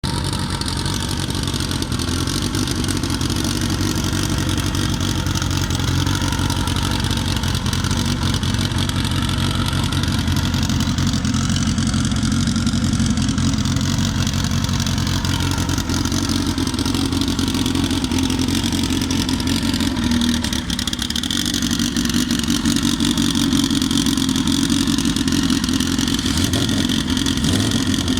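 Opel Corsa race car engine running steadily, with small shifts in pitch and a brief dip about twenty seconds in.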